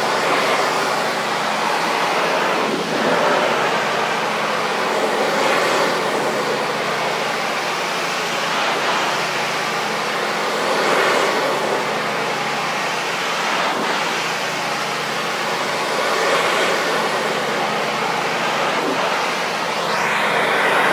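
Pressure washer running: a steady engine hum under the loud hiss of the high-pressure water jet spraying an awning. The spray noise swells and eases every few seconds.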